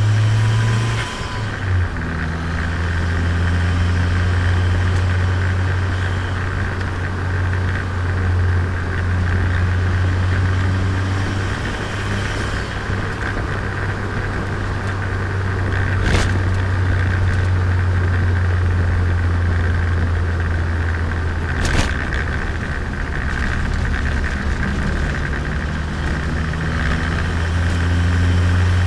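Turbocharged Nissan Micra engine pulling steadily on the move, recorded onboard, with road noise. The engine being run in after engine work. The engine note shifts briefly about two seconds in, and two short sharp clicks come near the middle and about two-thirds of the way through.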